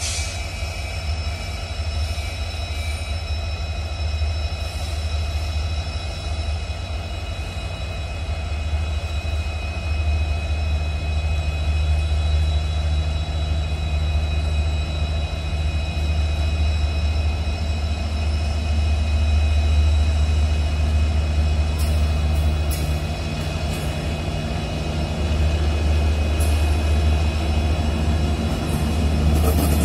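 Indian Railways electric locomotive hauling a passenger train on its approach: a steady low rumble and hum with thin steady high tones above it, growing slightly louder as it nears, with a few light clicks near the end.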